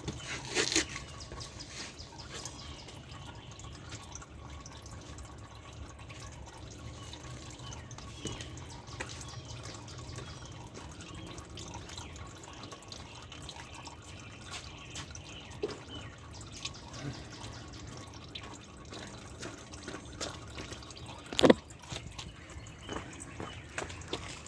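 Engine oil dripping from a Porsche 986 Boxster's sump into a drain pan, in faint scattered drips. A sharp knock just under a second in, and a louder one near the end.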